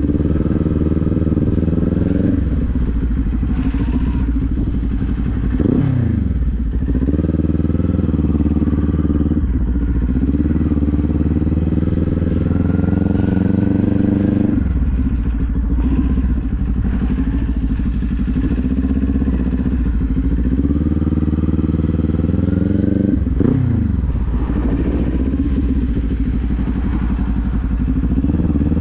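Motorcycle engine running under way, its revs climbing steadily and then dropping sharply three times, about 6, 15 and 23 seconds in, the pattern of shifting up through the gears.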